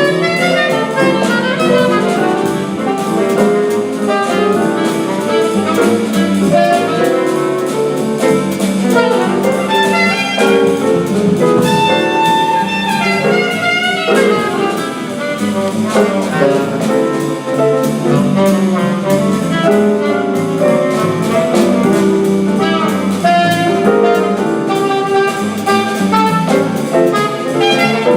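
Live small-group jazz playing, with a saxophone line over a drum kit and rhythm section.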